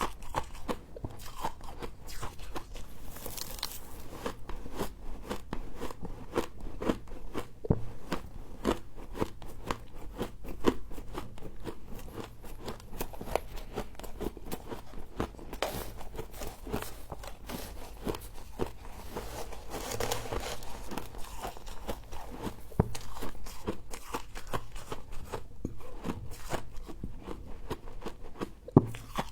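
Close-up chewing and crunching of frost scraped from a humidifier, with many rapid crisp crunches throughout.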